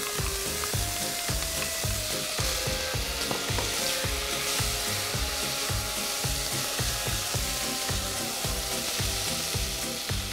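Vermicelli and soaked, drained rice sizzling in hot oil in an enamelled pot, stirred with a wooden spoon. Background music with a steady beat plays underneath.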